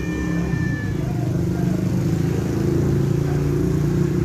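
A steady low rumble like an engine running, with a cat's meow trailing off in the first second.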